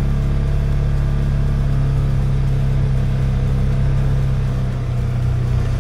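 Polaris Ranger 570 side-by-side's single-cylinder engine running at a steady speed, a constant drone.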